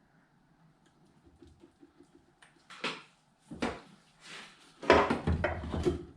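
Metal knocks and clatter as an engine mount is worked free: a few separate clunks, then a louder run of rattling and banging near the end.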